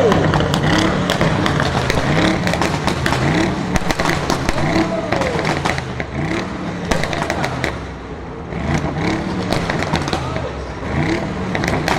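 A car engine revved again and again in short blips, each rise in pitch followed by a run of exhaust pops and crackles.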